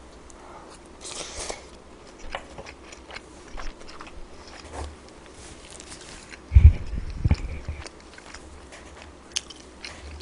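Close-miked eating sounds of kimchi fried rice: a spoon clicks and scrapes through the rice as it is mixed, then comes biting and chewing, with heavy low thuds about six and a half seconds in.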